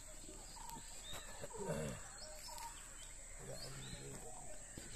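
Small birds chirping intermittently over a steady high hiss, with a brief murmur of voices twice, the louder one just before the middle.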